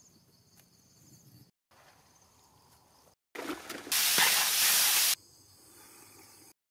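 Herbs and chillies frying in hot oil in a large wok, a loud sizzle that starts about four seconds in, lasts about a second and cuts off suddenly. Before it the sound is faint, broken by several sudden cuts.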